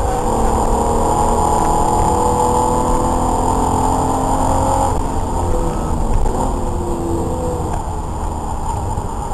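Race car's engine heard from inside the stripped cabin, running hard on a circuit lap. Its pitch shifts, with one note dropping away about five seconds in and a new one climbing after it.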